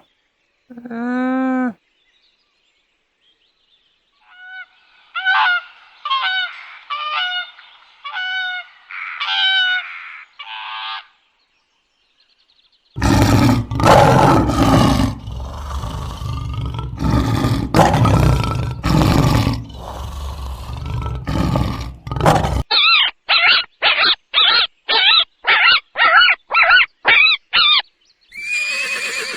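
A string of different animals' calls, one clip after another: a short pitched call, then about six higher repeated calls, then about ten seconds of loud rough calls, then a fast run of short repeated calls at about two a second.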